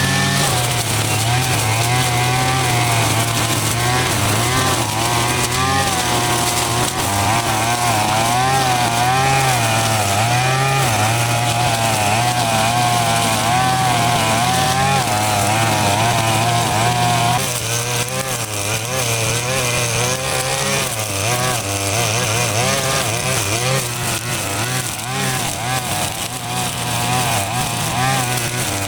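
A small petrol engine running, its speed wavering up and down under changing load.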